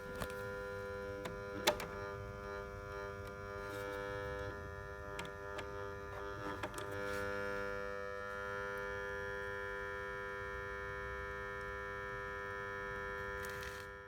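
Aging magnetic switch (contactor) in a switchboard buzzing steadily with an electrical hum, a stack of steady tones. A contractor found its worn relay chattering from poor contact, setting up a resonant hum. A few short clicks, one near 2 s and some around 7 s.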